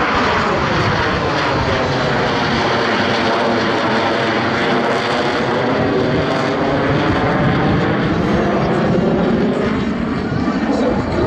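Blue Angels F/A-18 Super Hornet jets flying past with a loud, steady jet roar.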